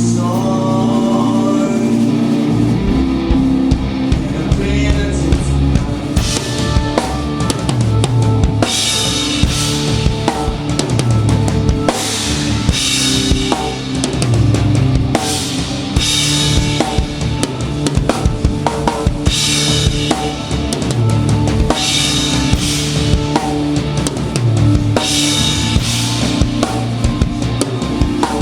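Live band playing, with the drum kit up front: held guitar and bass notes, then kick, snare and cymbals come in after a couple of seconds and drive a steady beat, with cymbal crashes every few seconds.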